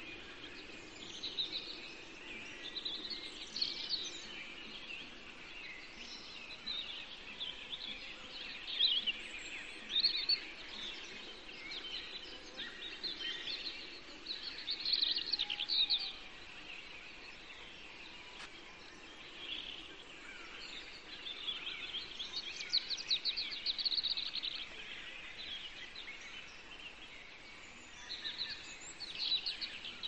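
Songbirds singing in chorus: overlapping chirps and warbled phrases with quick trills, over faint steady background noise.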